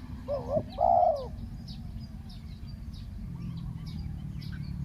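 Spotted dove cooing: one loud two-part coo about a second in, then a fainter coo past the middle, with small birds chirping faintly and high.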